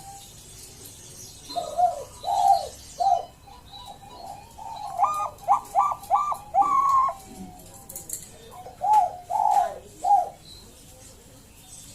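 Perkutut bangkok (Thai-bred zebra dove) singing its rhythmic cooing song in three phrases: a group of three notes, then a quicker run of about five higher notes, then three more notes near the end.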